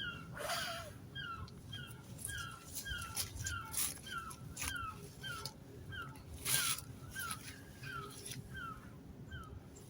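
Freshly lit campfire crackling, with sharp pops and snaps, the loudest about six and a half seconds in. Over it runs a steady series of short, high squeaky notes, about two a second.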